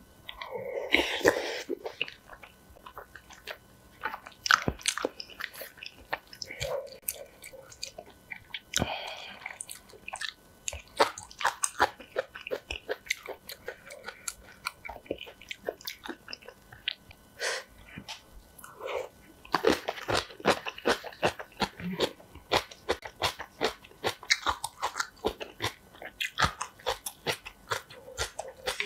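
Close-miked eating: chewing spicy instant noodles and rice, and crunching on napa cabbage kimchi, with many sharp crunchy bites that come thickest about twenty seconds in.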